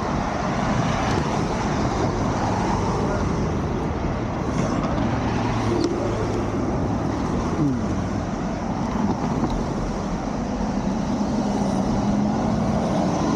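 Steady street traffic noise heard while riding an electric bike, with faint engine hums gliding up and down as vehicles pass.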